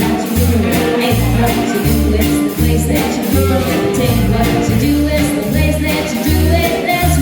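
Live swing jazz band playing an upbeat tune with a steady beat.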